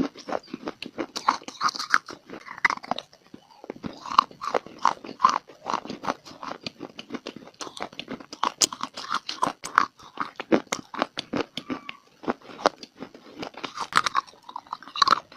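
A person biting and chewing dry clay close to the microphone: dense, irregular crunches and crackles, several a second, with a couple of brief lulls.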